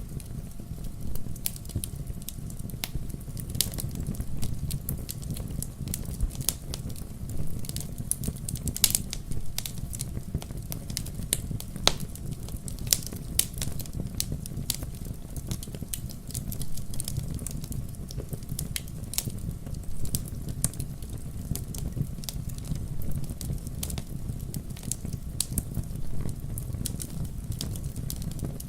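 Wood logs burning in a fireplace, crackling with frequent sharp, irregular pops over a steady low rumble of the flames.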